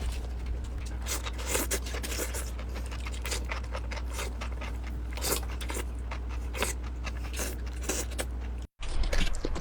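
Close-miked eating: irregular crunchy bites and wet chewing clicks over a steady low hum. Near the end the sound cuts out for a moment and comes back louder.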